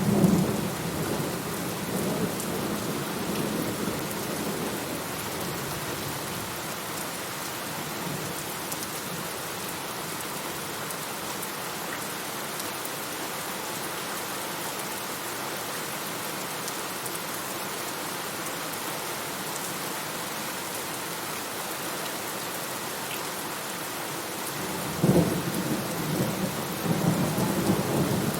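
Steady rain with thunder: a low rumble fading away in the first second or two, then a new roll of thunder starting about 25 seconds in and rumbling on near the end.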